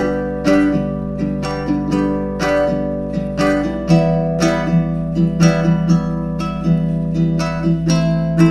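Instrumental break of a karaoke backing track: picked guitar-like notes, several a second, over sustained low notes.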